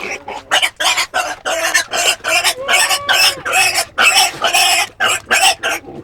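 A rapid run of short, rough, animal-like grunts, about three a second, with one longer drawn-out grunt midway.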